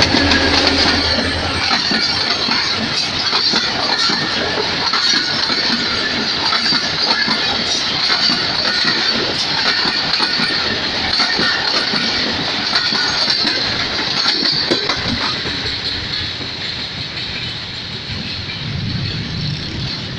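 Passenger coaches of a train rolling past close by, their wheels clattering over the rail joints in a steady clickety-clack. The clatter fades over the last few seconds as the end of the train goes by.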